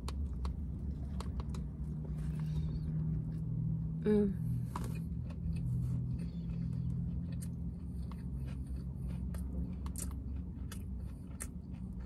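Close-miked chewing of a falafel pita sandwich: a bite, then closed-mouth chewing with many small wet mouth clicks and smacks, over a low steady hum. A short hummed "mm" comes about four seconds in.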